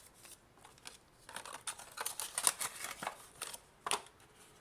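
Rustling and light clicks of a charger and its packaging being handled, starting about a second in, with a sharper click near the end.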